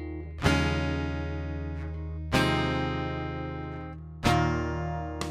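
Background music: strummed acoustic guitar chords, one about every two seconds, each left to ring out and fade.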